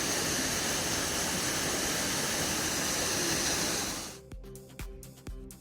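Waterfall rushing as a steady hiss that cuts off abruptly about four seconds in, giving way to background music with a steady beat.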